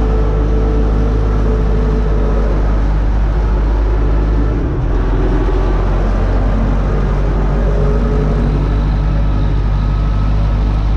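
Universal U650 tractor's diesel engine running steadily under load while pulling a disc harrow, with a brief slight dip in level about four and a half seconds in.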